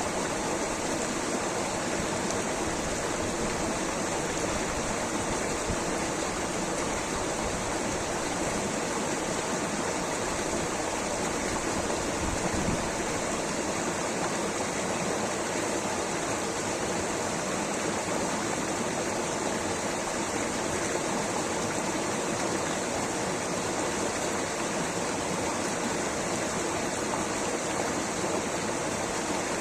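Rushing water, a steady, even rush with no breaks or changes.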